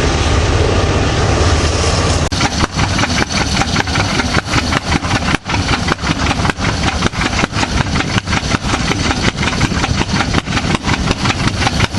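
Tractor engine running. After about two seconds of steady noise it settles into an even, chopping beat of about four to five pulses a second.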